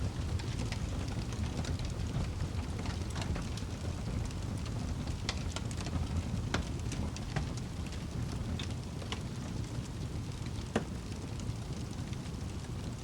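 Wood fire burning in a fireplace, crackling and popping irregularly over a steady low rumble, with one sharper pop near the end.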